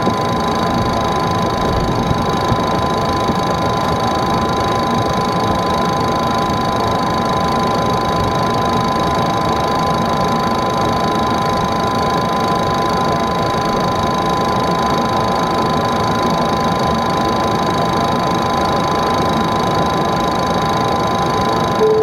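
Steady interior noise of a Boeing 737 on the ground after landing: an even whirring rush from its engines and air systems, with several high, steady whine tones held unchanged throughout.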